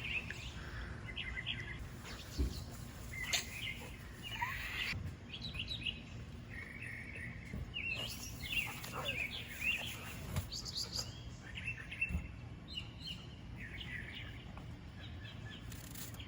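Birds chirping, many short calls scattered throughout, over faint background noise.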